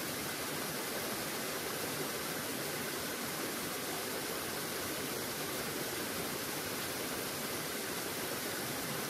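Stream water running over rocks in a steady, even rush.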